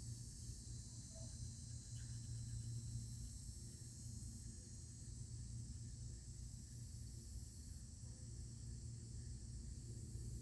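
Faint, steady chorus of crickets, with a low steady hum underneath.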